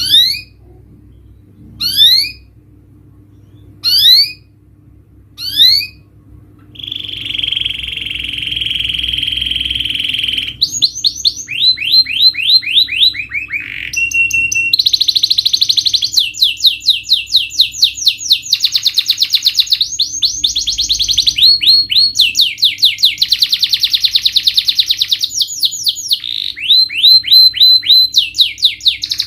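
Domestic canary singing: four loud rising whistles about two seconds apart, then a buzzy trill and long runs of rapid repeated notes. It is a lure song used to provoke caged canaries into singing.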